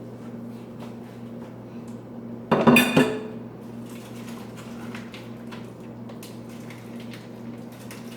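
Kitchen dishes and utensils clattering: light clicks and knocks, with one loud clatter that rings briefly about two and a half seconds in, over a steady low hum.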